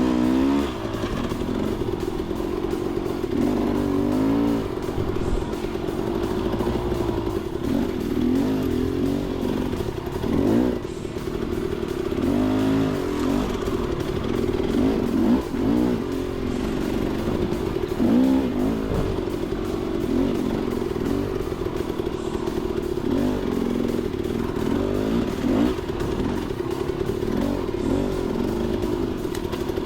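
Dirt bike engine running under constantly changing throttle, its pitch rising and falling every second or two as the rider revs on and off.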